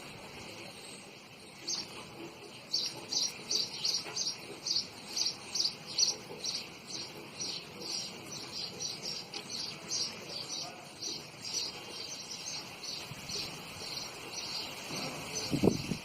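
A small bird chirping over and over, short high chirps about two a second, loudest in the first few seconds, over a steady high buzz of crickets. A short low-pitched noise sounds near the end.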